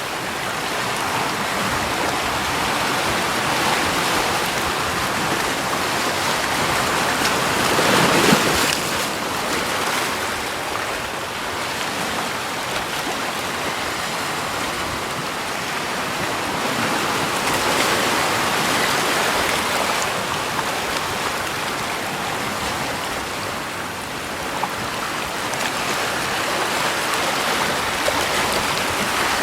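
Steady rushing water with no voices, swelling louder about eight seconds in and again around eighteen seconds.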